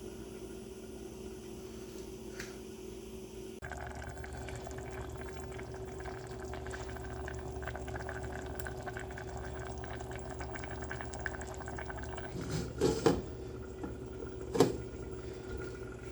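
A pot of food bubbling and crackling on the stove, with a few loud clattering knocks of cookware near the end.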